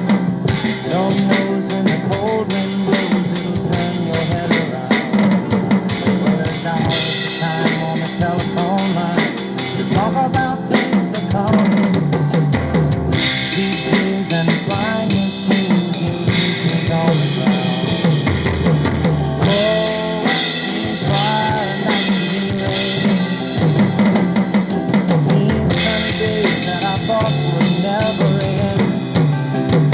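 Drum kit played along to a recorded song's instrumental backing, with bass drum, snare and rimshot hits over the band, no vocals.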